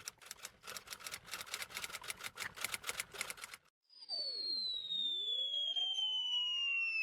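Sound effect of rapid typing, a quick irregular run of key clicks for about three and a half seconds, stopping abruptly. After a short gap, a long whistle starts high and falls slowly in pitch.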